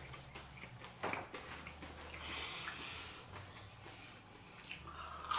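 Close-up chewing of a crispy breaded chicken finger, with a short crunch about a second in and softer chewing noise after.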